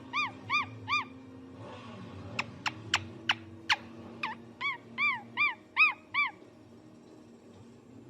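A bird calling in a quick series of short, arching, whistle-like notes, about three a second. Partway through there is a run of sharp upward chirps, then more arching notes, and the calls stop about two seconds before the end.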